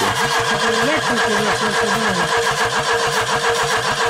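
Opel Corsa 1.2-litre inline-four engine being cranked by its starter motor for about five seconds: an even chugging of about nine compression pulses a second under a steady starter whine, the pace never picking up. The engine does not catch, which the men put down to no fuel and a closed choke flap.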